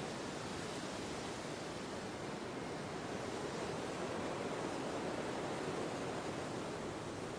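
Steady wind ambience: an even rushing of wind that swells slightly about halfway through.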